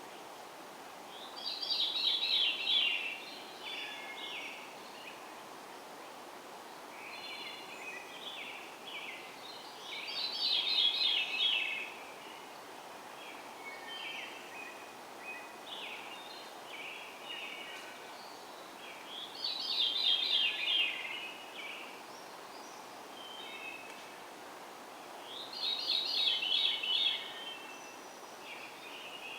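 A bird singing four louder trilled phrases several seconds apart, with softer chirps between them, over a steady background hiss.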